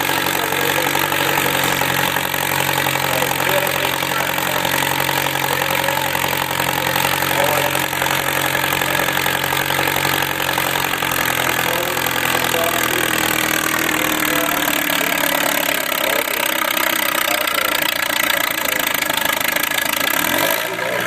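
Farm tractor engine running steadily during a tractor pull; about two-thirds of the way through, its lowest note fades and the pitch drops.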